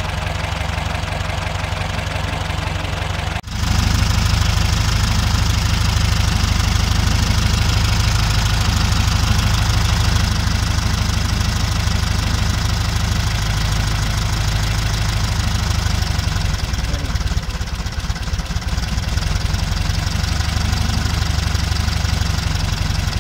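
Volkswagen Beetle's air-cooled flat-four engine, fitted with electronic ignition, idling steadily. About three and a half seconds in the sound drops out for a moment and comes back louder.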